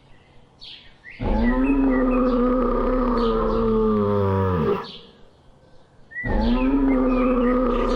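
A farm animal's long calls, twice, each about three and a half seconds, holding a steady pitch and dropping away at the end. Faint bird chirps come in between.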